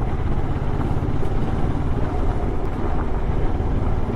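Kawasaki Ninja 650's parallel-twin engine running steadily while riding, with a dense low rumble throughout.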